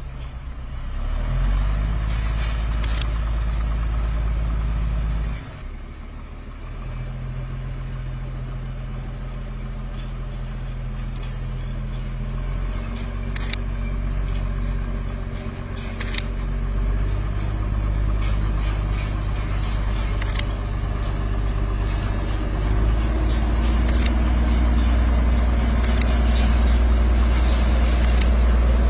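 Narrow-gauge hill train's locomotive running with a steady low drone that shifts in level and tone a few times, with occasional short sharp clicks.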